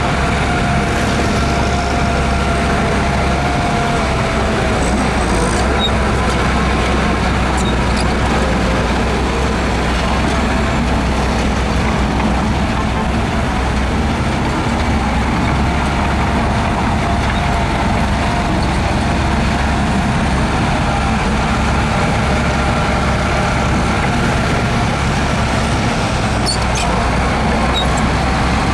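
Heavy diesel earthmoving machinery running steadily at work, a deep continuous engine drone with faint higher whines over it.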